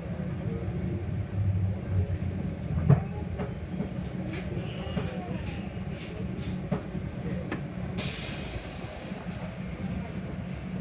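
Metra commuter train heard from inside a passenger car: a steady low rumble with a run of clicks from the wheels in the middle, then a sudden burst of air hiss about eight seconds in that fades over a couple of seconds.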